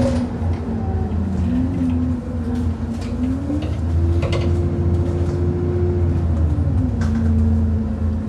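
Bus running on the move, heard from inside, its engine note rising a few seconds in and falling back near the end. Sharp knocks come through about three and seven seconds in: the loud knocking the bus makes over potholes.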